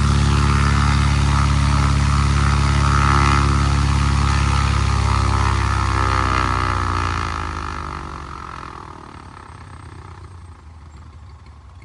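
The Cessna 170's Continental O-300 six-cylinder air-cooled engine runs steadily, then falls in pitch and level about seven seconds in as it slows down.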